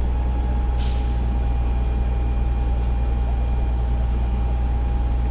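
Fire engine's diesel engine idling steadily, with one short hiss of air brakes venting about a second in.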